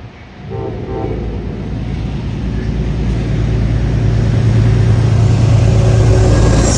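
A passing train at trackside. Its low, steady running sound builds to a loud peak and starts to fade near the end.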